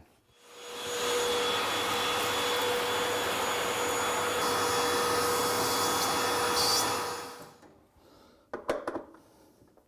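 Vacuum cleaner running: its motor spins up over about a second, runs steadily with a constant whine, then winds down. It is cleaning dust from the refrigerator's condenser fan area. A few short clicks follow near the end.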